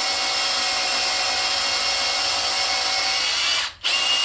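Cordless drill turning a drill bit into an aluminium engine block, running steadily, stopping briefly and restarting near the end. The bit drags in the gummy aluminium, so the drill labours instead of spinning freely, which the machinist suspects means the block has been overheated and the aluminium has gone soft.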